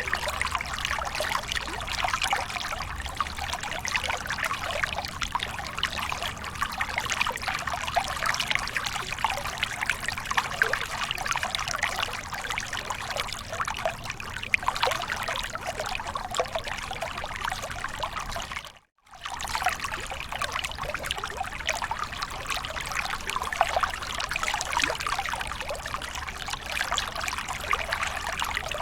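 Small waterfall: water pouring and splashing steadily, with constant fine spattering. The sound cuts out completely for a split second about two-thirds of the way through, then resumes unchanged.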